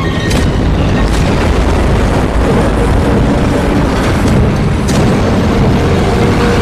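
Action-film street-race sound effects: a dense, loud car roar broken by several sharp bangs, twice near the start and twice near the end.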